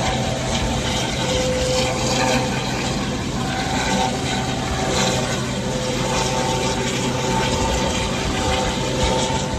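Steady rushing wind buffeting the microphone on a ship's open deck, with a low steady hum underneath that fades out near the end.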